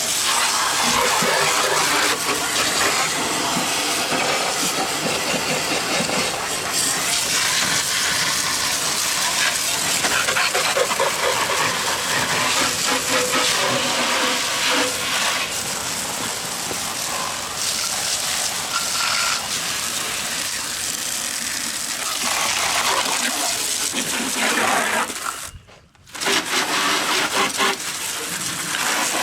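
Garden hose spray nozzle spraying water in a steady stream, stopping for about half a second near the end and then starting again.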